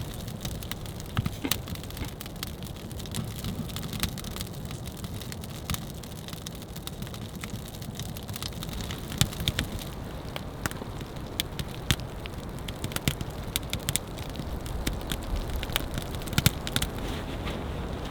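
Campfire crackling, with many sharp irregular pops, over a steady patter of rain.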